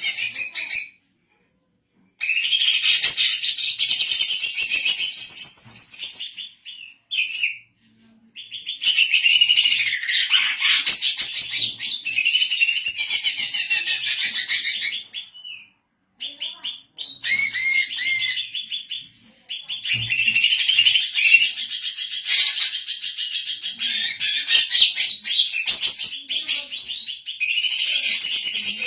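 Female cucak ijo (green leafbird) singing a long, rapid, busy twittering song in several long runs, broken by a few short, sudden silences.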